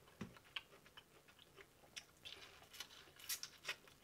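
Faint chewing of corn on the cob, with scattered soft wet mouth clicks and smacks.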